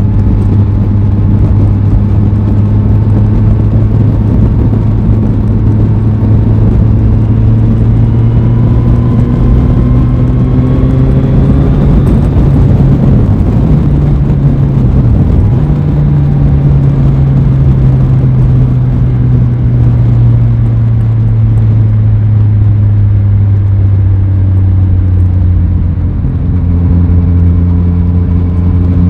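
Aprilia Tuono 660 motorcycle's parallel-twin engine running under way, its pitch climbing slowly over the first dozen seconds as it accelerates. Two brief dips in engine pitch come about halfway through, then it runs on steadily and eases off, with a short drop in level near the end.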